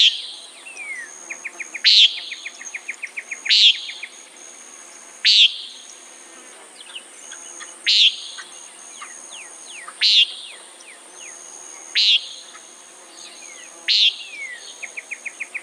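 Common nighthawk giving its short nasal "peent" call, eight times at roughly two-second intervals. Behind it, insects keep up a steady high drone and bursts of fast ticking trills.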